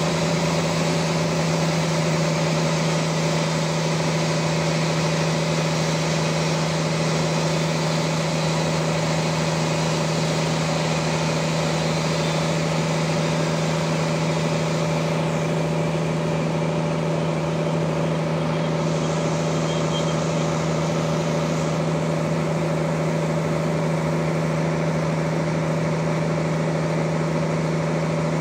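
Sawmill machinery running steadily, a constant drone that holds one pitch with no break or change.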